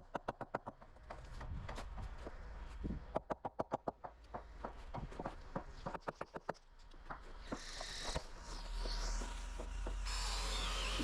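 A power tool working in short runs of rapid clicking, about ten clicks a second, near the start and again a few seconds in. Then a harsher, high-pitched noisy stretch briefly around eight seconds and again near the end.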